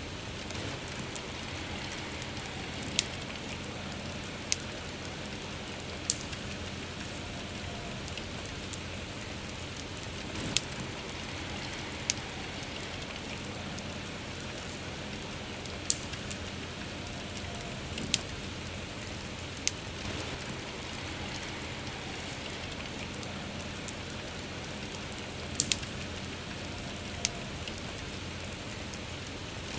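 Steady rain hissing together with a crackling campfire, the fire giving a sharp pop every few seconds at irregular intervals.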